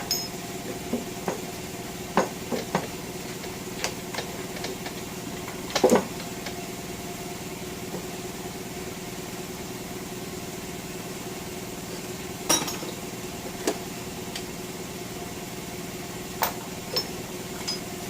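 Air compressor motor running with a steady hum, with scattered sharp metal clanks and clinks of tools against a small-block Chevy 350's cylinder head and block as the head is pried off; the loudest knocks come about 6 and 12 seconds in.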